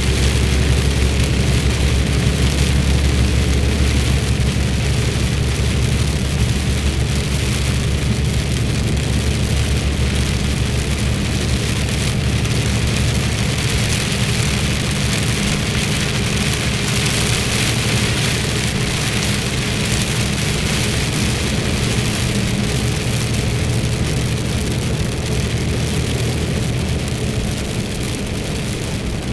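A truck engine running steadily with a low hum, under the continuous hiss of rain.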